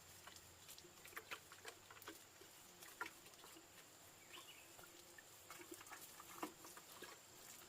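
Faint scattered clicks and light taps over quiet background, with a faint steady high-pitched whine throughout.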